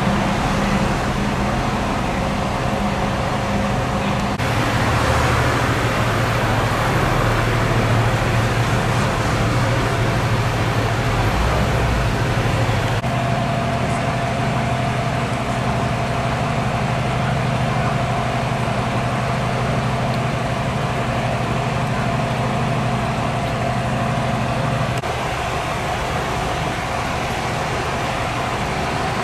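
A vehicle engine running steadily, its hum changing pitch a few times and dropping a little near the end, with a louder rushing hiss for several seconds early on.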